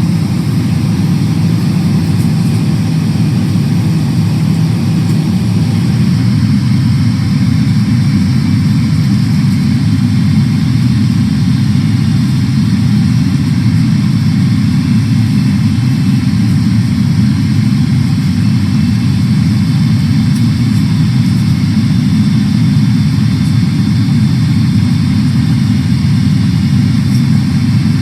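Steady, loud low rumble of cabin noise inside a Boeing 777-300ER airliner: engine and airflow noise heard from the seat.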